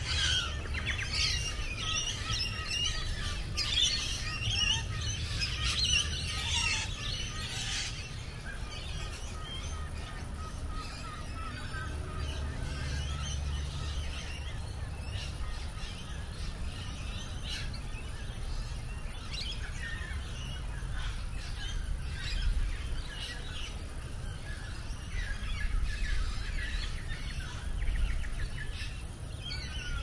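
Several birds chirping and calling, a dense chorus for the first eight seconds or so, then scattered calls, over a low rumble of wind on the microphone.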